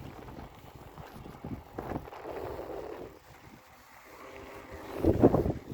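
Wind buffeting the microphone of a camera carried on a moving bicycle, a low uneven rumble that eases off in the middle and surges again near the end.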